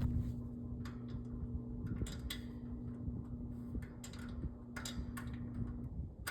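Vintage Armaid box fan motor humming steadily as it struggles to turn, with scattered light ticks; the hum stops about six seconds in. The motor hums but won't start on its own or reach full speed even though its bearings turn freely.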